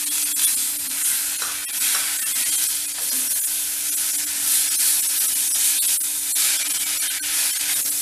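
Tomatoes frying with onions, garlic and cashews in oil and butter in a pan, with a steady sizzle and occasional light clicks of the stirring spoon.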